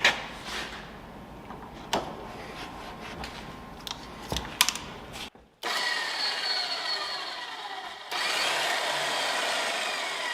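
Several sharp metal knocks and clanks. Then a power tool runs with a steady rush of noise and a whine that falls in pitch, breaking off and starting again about eight seconds in.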